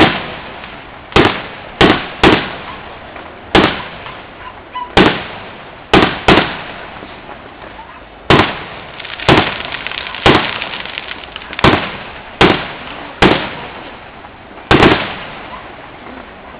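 A string of about fifteen loud explosive bangs at uneven intervals, from under a second to about two seconds apart, each followed by a long echoing tail.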